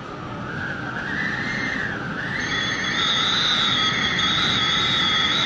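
Hurricane-force wind howling around a house: a wavering high whistle over a steady rushing roar, growing louder over the first couple of seconds.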